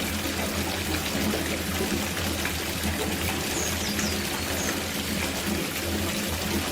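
Running water pouring steadily into a copper bathtub as it fills, a continuous even splashing.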